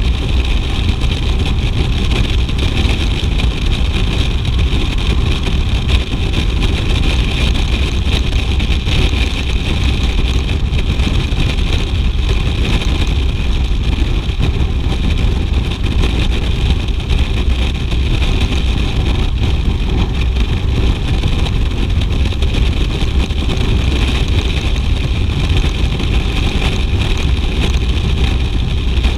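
BMW R 1200 GS motorcycle's boxer-twin engine running steadily while riding, with a heavy low rumble and no revving changes.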